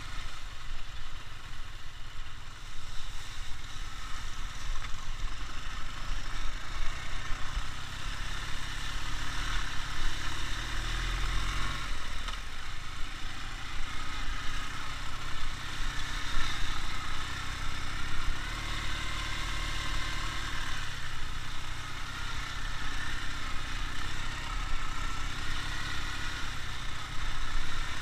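Ural motorcycle's flat-twin engine running steadily, its engine speed rising and falling a few times.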